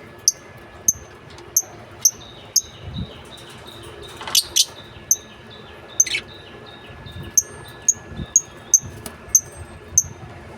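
Pet lovebirds chirping: a steady run of short, sharp, high chirps, about two a second, with a couple of longer, louder calls around the middle.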